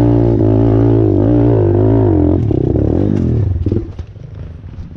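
Single-cylinder 125cc pit bike engine revving hard under load on a steep dirt hill climb, its pitch wavering up and down, then dropping away abruptly about four seconds in, leaving faint clicks and rattles.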